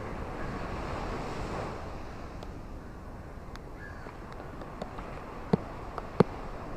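Ocean surf washing ashore: a steady rush that swells over the first couple of seconds and then eases. A few sharp clicks come near the end, the two loudest about two-thirds of a second apart.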